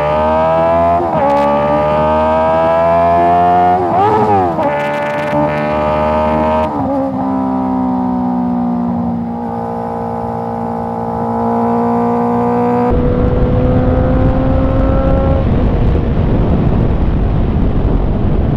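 Honda CBR650R's inline-four engine through an Akrapovic exhaust, revving up through the gears with breaks at each shift, then holding a steady cruise. From about two-thirds of the way in, a rushing wind noise covers the engine.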